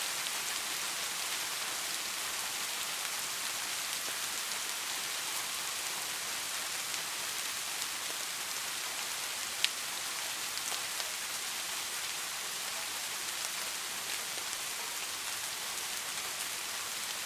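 Steady rain falling and pattering on a surface, an even hiss with scattered individual drop ticks; one sharper, louder drop tick about halfway through.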